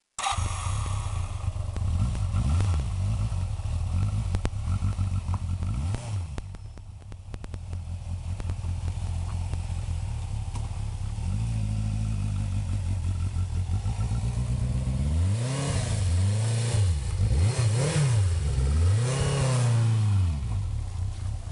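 Yamaha Seca 550's air-cooled inline-four engine running, blipped now and then. Near the end it revs up and down several times in a row as the bike pulls away and picks up speed.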